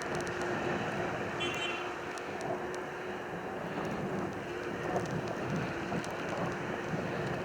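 Snowstorm wind blowing, a steady rushing noise with a constant low hum underneath and a brief high call about a second and a half in.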